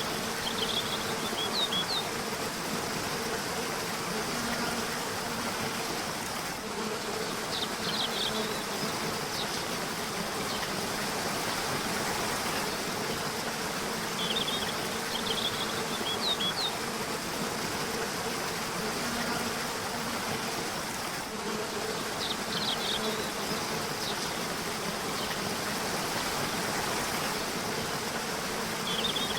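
Steady rush of a river or waterfall, with small clusters of short, high bird chirps every six to eight seconds. A faint low buzz comes and goes under the water.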